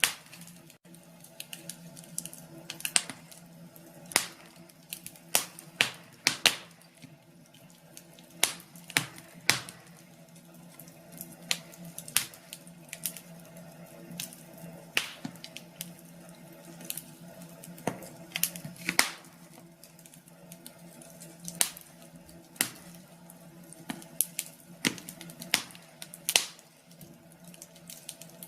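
Wood fire crackling, with irregular sharp pops and snaps one or two a second, some much louder than others.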